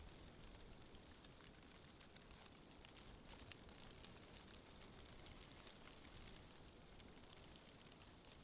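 Faint, steady wind ambience, with a scatter of light ticks throughout.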